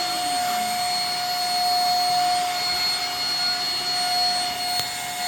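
Vacuum cleaner running steadily on carpet, its motor giving a constant high whine.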